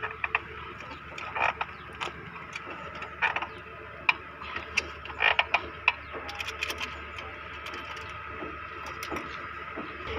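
Irregular metallic clicks and knocks of hand tools at work on a tractor, thickest in the first half and sparse near the end, over a steady background hum.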